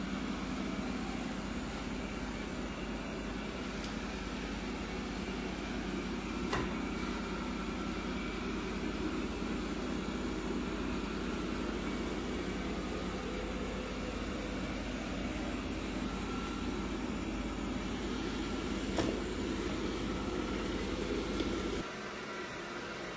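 Roborock S7+ vacuum motor running with a steady low hum and rush of air, with a faint click twice along the way; it cuts off abruptly near the end, leaving a quieter steady hum.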